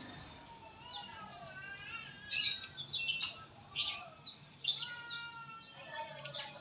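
White-rumped shama (murai batu) singing a varied song: clear whistled notes that rise and fall, mixed with quick, sharp high chirps.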